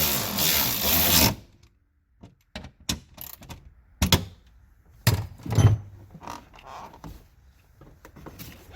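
A power tool runs for about a second and then cuts off. Scattered knocks and clunks of tools and metal parts being handled follow.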